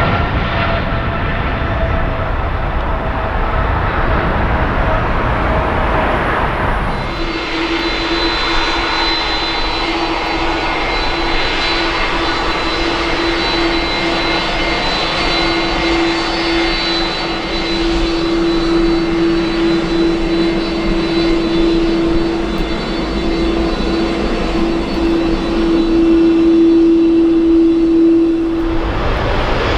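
Jet airliner engines. For the first few seconds a passing jet's noise falls slowly in pitch. After an abrupt change about seven seconds in, a steady engine hum with a held tone and thin high whistles runs until just before the end.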